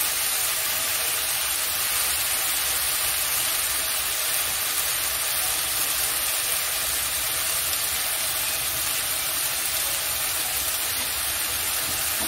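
Chopped water spinach frying in oil in a kadai, a steady, even sizzling hiss.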